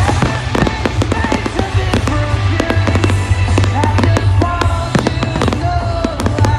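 Fireworks display: a rapid, continuous run of bangs and crackles from bursting shells, over loud music played with it.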